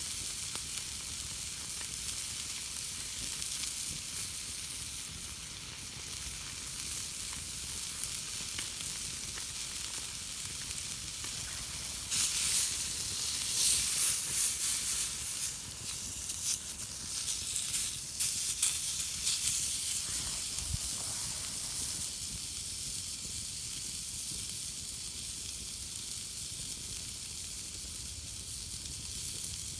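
Food sizzling on a thick iron griddle plate over a wood fire, a steady frying hiss that swells louder and crackles for several seconds midway.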